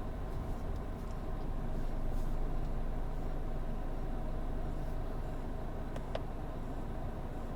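Steady low rumble of a vehicle on the move, road and engine noise, with a faint click about six seconds in.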